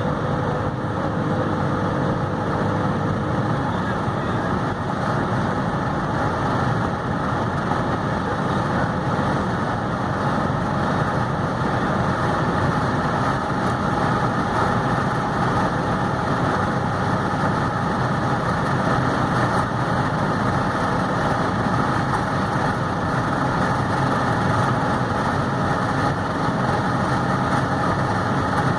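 VW Golf Mk3 with a VR6 engine and a freshly repaired 01M automatic gearbox, driving at a steady speed: an even mix of engine, road and wind noise that neither rises nor falls.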